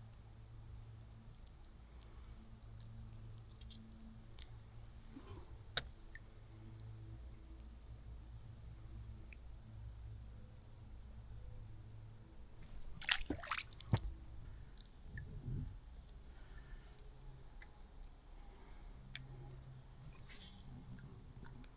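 Steady high-pitched insect chorus, typical of crickets, running under faint outdoor background, with a couple of single clicks and a short burst of clicks and knocks about 13 seconds in.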